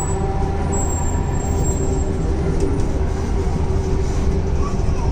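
Cabin noise inside a Hyderabad Metro train on the move: a steady low rumble with a constant hum, and a faint high whine about a second in.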